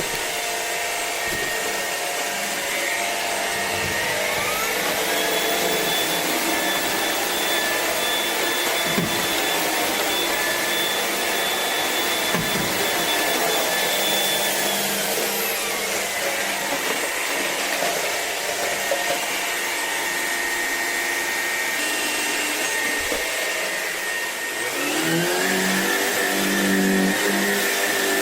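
Shark PowerDetect cordless stick vacuum running with a steady rushing hiss and motor whine. The motor speeds up about four seconds in, drops back down about fifteen seconds in, and speeds up again near the end.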